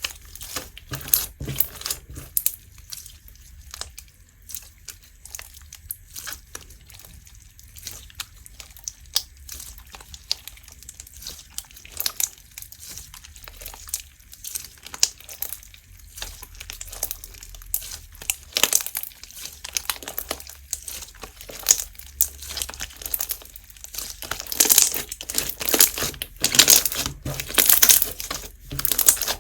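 Slime being squeezed, stretched and pressed by hand, giving many irregular crackling, popping clicks that grow denser and louder near the end.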